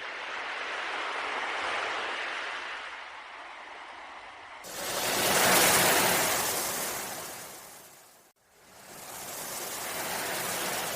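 Ocean waves washing in and drawing back, three swells in turn, the loudest about halfway through, with a brief dropout just after eight seconds.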